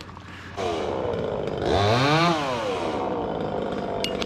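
Chainsaw running, starting about half a second in; it is revved up once about two seconds in and drops back to a steady idle.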